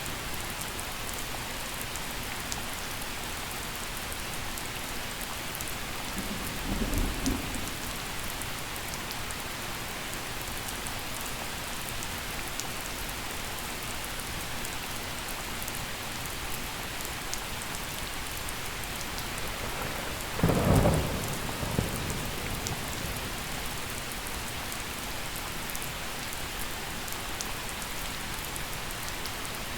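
Gentle steady rain with two rolls of thunder: a short low rumble about seven seconds in and a louder, longer one about two-thirds of the way through.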